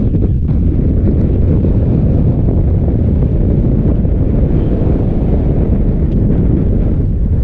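Loud, steady wind buffeting the microphone, a deep rumbling noise with no let-up.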